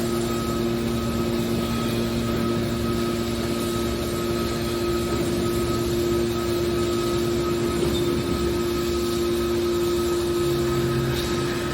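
Horizontal hydraulic scrap metal baler running: a steady machine hum with a constant pitch, from its hydraulic power unit.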